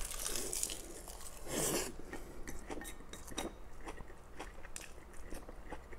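Close-up eating sounds: a mouthful of Mi goreng fried instant noodles wrapped in roasted seaweed being bitten and chewed, with wet mouth clicks. Two louder bursts come in the first two seconds, then a run of small irregular chewing clicks.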